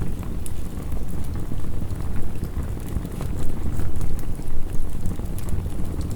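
Steady heavy rain with a low rumble, over which a wood fire crackles in scattered small snaps.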